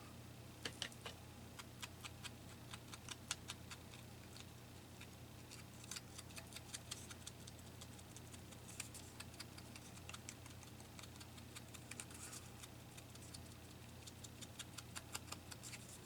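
Faint, irregular light taps and dabs, a few per second, with brief brushing scuffs, of an ink pad or ink blending tool being dabbed around the edges of a small paper piece.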